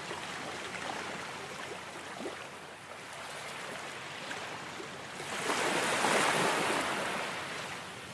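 Ocean waves washing in with a steady hiss of surf; about five seconds in a bigger wave swells up, is loudest for a couple of seconds, then draws back.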